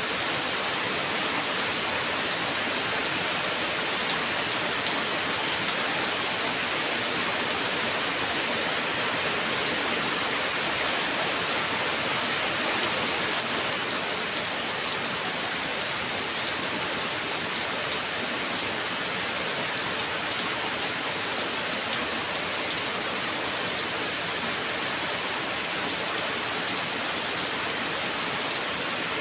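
Heavy rain falling steadily, a dense even hiss of drops on surfaces, with no distinct thunder.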